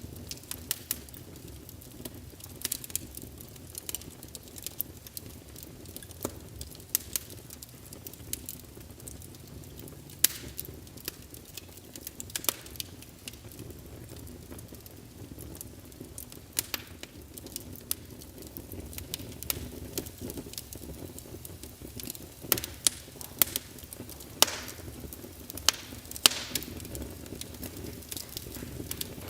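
Logs burning in a fireplace: irregular sharp crackles and pops over a low steady rumble of flame, with a cluster of louder pops in the last third.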